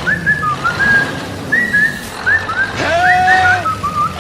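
Short rising whistle-like chirps, repeated a few times a second, with a longer held tone about three seconds in.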